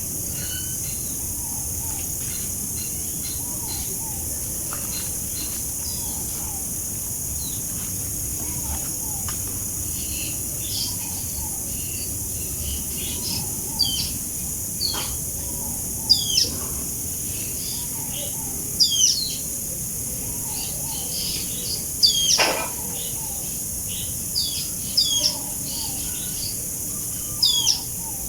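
Birds chirping in short, falling notes, repeated and louder in the second half, with one long loud whistle that drops steeply in pitch about three-quarters of the way through. A steady background hiss runs underneath.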